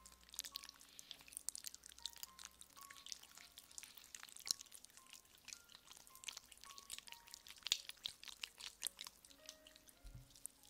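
Fast, dense scratching and light tapping close to a microphone, the crackly clicks of ASMR ear-massage triggers, with soft background music notes under them.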